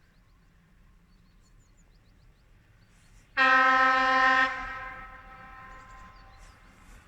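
Train horn sounding one loud blast of just over a second, about three seconds in, then echoing away.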